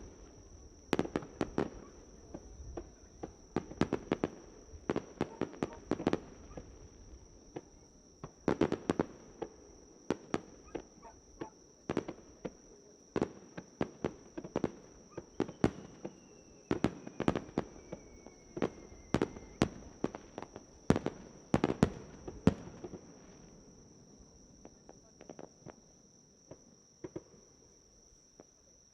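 Fireworks going off in rapid clusters of sharp bangs and crackles, thinning out about three-quarters of the way through. A steady high chirring of insects runs underneath.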